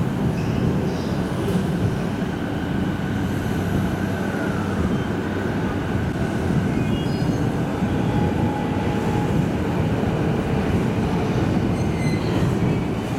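JR East E233-series Saikyō Line electric train pulling into the platform and slowing to a stop, with a steady rumble of wheels on rail and a few faint, shifting tones above it.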